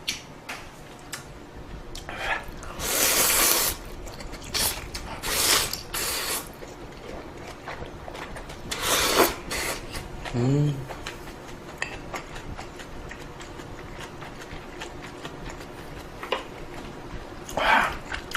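A person slurping ramen noodles and broth in several loud sucking bursts, with wet chewing and small clicks between them, and a short rising hum of approval about ten seconds in.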